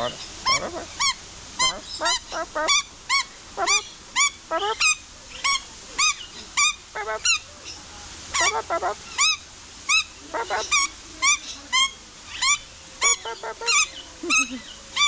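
A bird calling over and over with short, clear, honking calls, about two a second, some coming in quick pairs.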